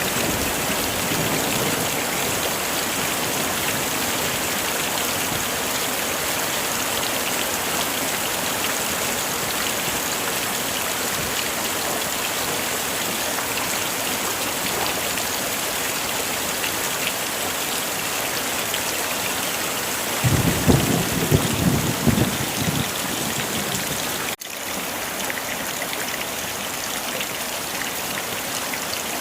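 Steady heavy rain hissing, with a low rumble of about four seconds near the end, cut short by a sudden momentary drop in the sound, after which the rain carries on a little quieter.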